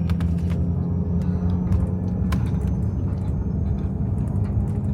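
Steady low rumble of a moving vehicle heard from inside the cabin, with scattered light clicks.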